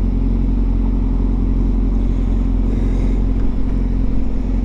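Honda CBR650F inline-four engine running at a steady cruise, with low wind rumble on the helmet microphone.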